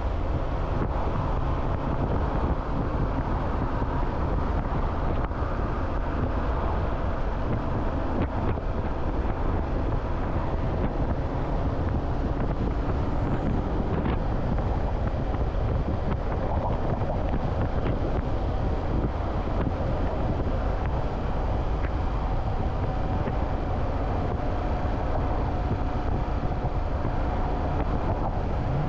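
Motorcycle running steadily at speed, with wind rushing over the microphone.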